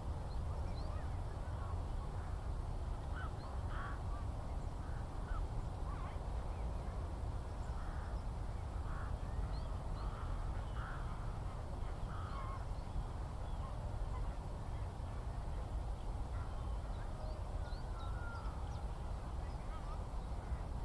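Distant birds calling in open countryside: scattered short calls every second or so, with a few faint high chirps, over a steady low rumble.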